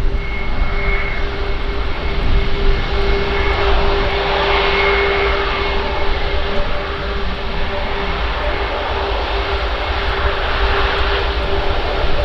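Airbus A340-600's four Rolls-Royce Trent 500 turbofans running: a steady jet drone with a constant high whine over a deep rumble.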